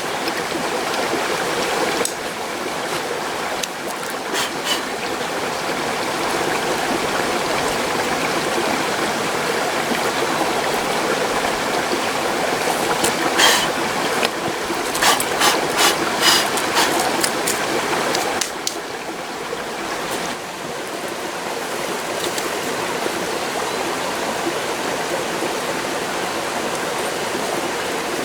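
Mountain stream flowing steadily. A handful of short sharp clicks stand out over it, most of them clustered about halfway through.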